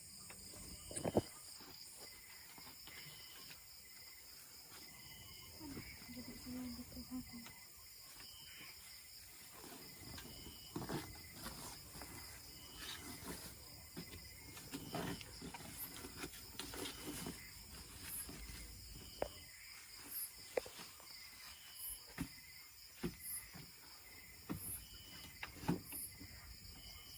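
Crickets chirring steadily, with short repeated chirps over the top, and scattered sharp clicks and knocks, most of them in the second half.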